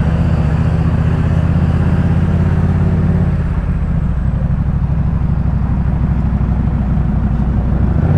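Yamaha MT-07's 689 cc parallel-twin engine running through a Jeskap K4 full aftermarket exhaust while riding, a steady pulsing exhaust note whose pitch drops slightly about three and a half seconds in.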